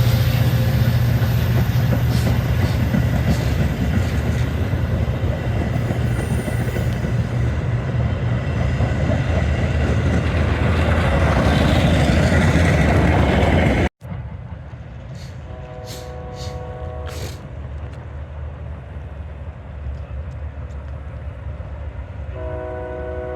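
Train running past loudly with a deep rumble. After an abrupt cut it is quieter, a train horn sounds briefly, then sounds again near the end and keeps going.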